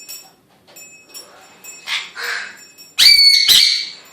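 Pet birds calling: a fainter harsh call about two seconds in, then two loud, harsh squawks close together about three seconds in.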